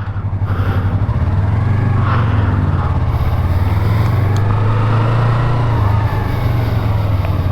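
Motorcycle engine pulling away, getting louder over the first second, then running steadily as the bike rides on.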